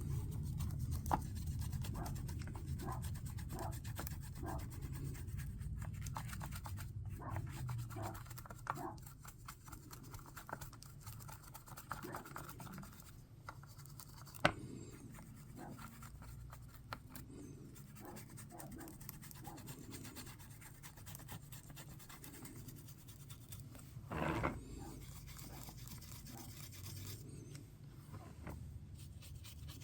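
Small brush scrubbing pigment flakes and powder into a mold to burnish them in: soft, irregular scratching strokes, with one sharp click about halfway through and a brief louder rustle near the end.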